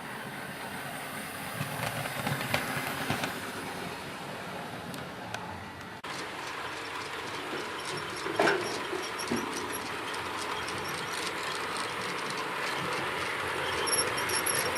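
OO gauge model trains running on the layout: a steady motor whir and track noise with scattered clicks from the wheels, growing louder near the end.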